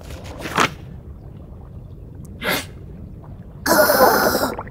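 A cartoon character's sneeze: two short catching breaths, then a loud sneeze near the end.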